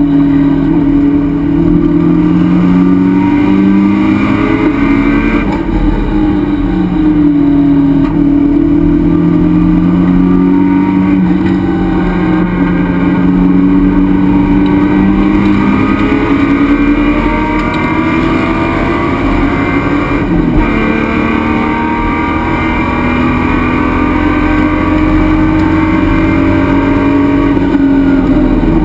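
A race car's engine at speed, heard from inside the stripped cockpit. Its pitch rises and falls as the car accelerates and lifts, with brief breaks about five and twenty seconds in.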